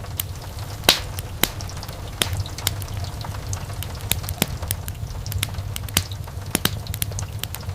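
Wood fire burning in a fireplace: a steady low rumble of flames with irregular sharp crackles and pops of burning logs, the loudest pop about a second in.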